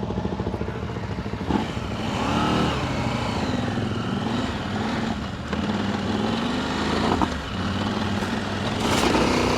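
Adventure motorcycle engine pulling away and revving on a dirt trail, its pitch rising and falling as the rider accelerates and shifts, with a few sharp knocks from the bike over rough ground.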